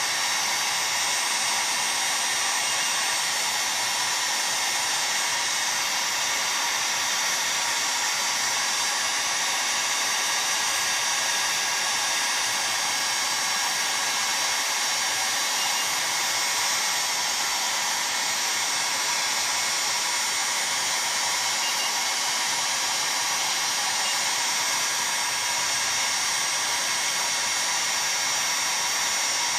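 Heat gun blowing steadily, heating a chainsaw crankcase half so that the crankshaft bearing and seal can be fitted.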